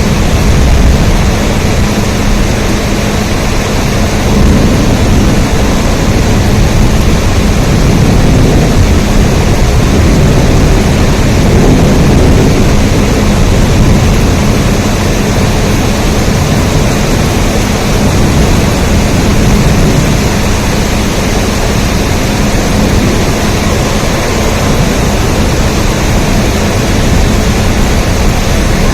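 Steady rain: a loud, even wash of noise with a strong low rumble and a faint steady hum underneath.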